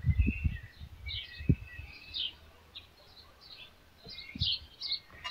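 Small birds chirping in short, repeated calls, with a few low bumps, the loudest about a second and a half in.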